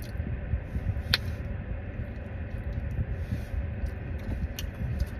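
Close mouth sounds of someone chewing food, with a few sharp smacks and clicks, over the steady low rumble of a car engine idling.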